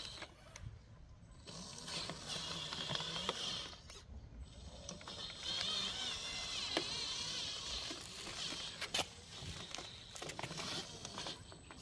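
Small electric motor and gearbox of a homemade RC dump truck running in short stretches with a wavering whine, and mechanical clicks and ratcheting in between.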